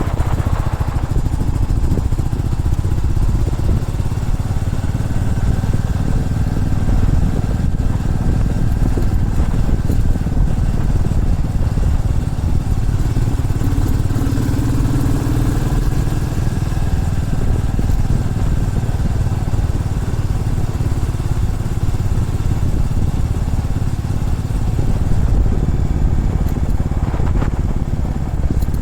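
Motorcycle engine running steadily while riding along, mixed with heavy wind rush on the microphone.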